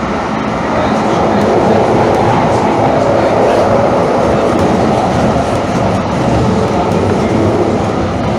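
Calgary CTrain light-rail train running along the track: a steady rumble of wheels and car, getting louder about a second in.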